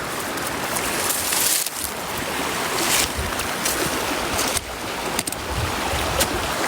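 A steady outdoor rushing noise that swells and eases, with a low rumble and a few light clicks.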